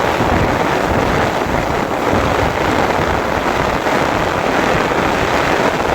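Heavy torrential rain pouring down, a steady dense hiss with no breaks.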